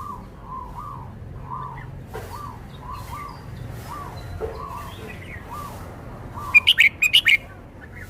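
Red-whiskered bulbul singing a short, loud burst of quick whistled notes about six and a half seconds in. Under it runs a soft, even series of short repeated notes, about two a second.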